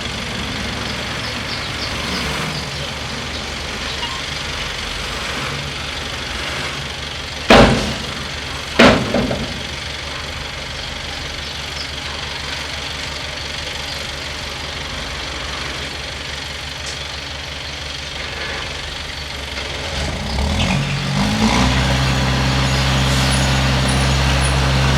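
Bulldozer's diesel engine running low and steady, broken by two sharp knocks about a second apart. Near the end the engine note rises and settles into a louder, steady drone.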